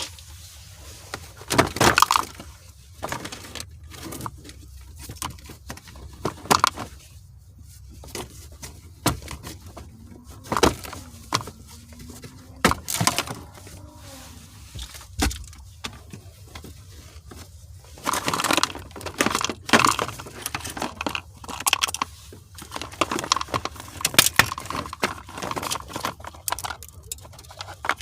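Hand tools and car parts being handled: scattered metallic clinks, clicks and knocks with short bursts of rattling clatter, busiest in the second half.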